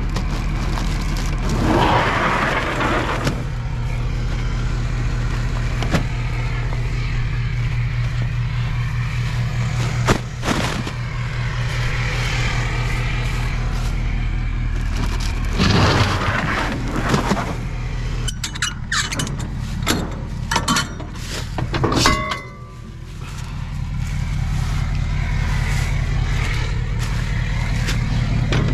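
Tow vehicle's engine idling steadily, with a few sharp knocks and clicks in the second half.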